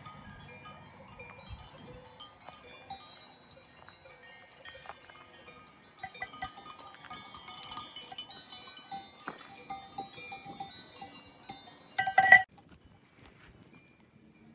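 Several cowbells clanking irregularly at different pitches, busier from about halfway through, with one loud, close clang near the end.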